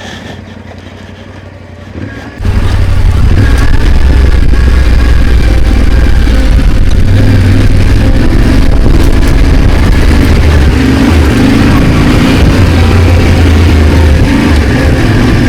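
Motorcycle engine running under load as the bike climbs a rough dirt track. It is quiet for the first couple of seconds, then jumps suddenly loud with a heavy low rumble about two and a half seconds in.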